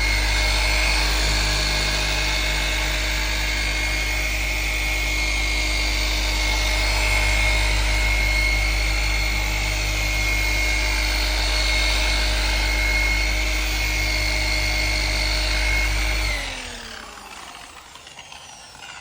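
Electric machine polisher running steadily on car paint with an even whine. Near the end it is switched off and its pitch falls as it spins down.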